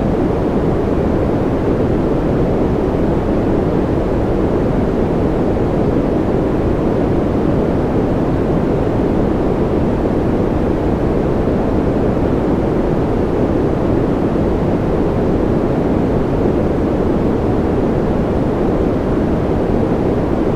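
Steady synthetic white noise played as a sleep sound: an even, unbroken hiss, deepest and strongest in the low range and thinning toward the top, with no change in level.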